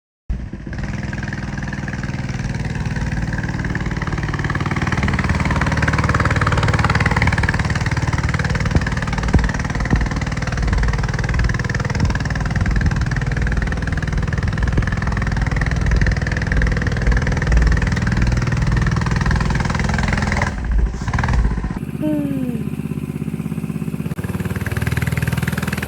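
Engine of a 100cc Coleman minibike running steadily. About 22 seconds in it briefly drops away with a short falling squeak, then picks up again.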